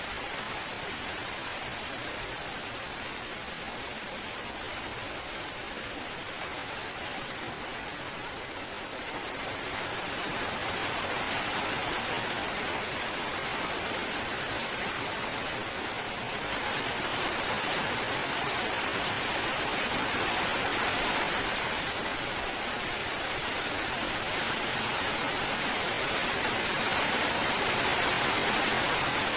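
Continuous rain falling: a steady, even wash of noise that grows a little louder about ten seconds in and again a little past halfway.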